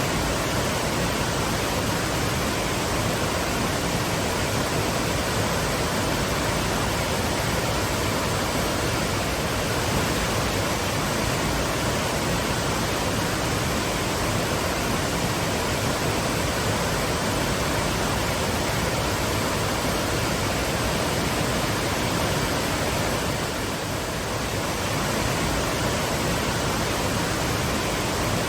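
Twin waterfalls pouring in a steady, even rush of falling water.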